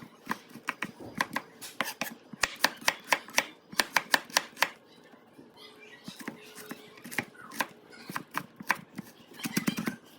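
Kitchen knife chopping on a cutting board: quick, even strokes about three or four a second, pausing for a few seconds midway and picking up again near the end.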